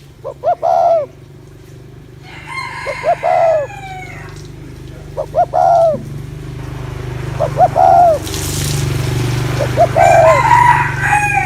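Spotted dove giving its 'gù' cooing call five times, each phrase two or three short notes and then a longer warbled coo, about two seconds apart. A rooster crows twice over it, about three seconds in and near the end.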